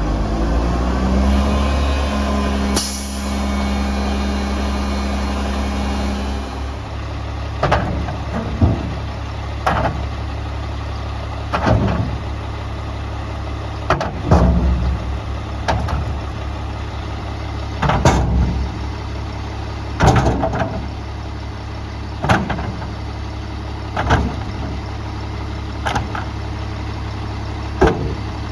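Garbage truck engine revving up and holding for several seconds, with a short sharp air hiss about three seconds in. It then drops back to a steady idle while short knocks come about every two seconds.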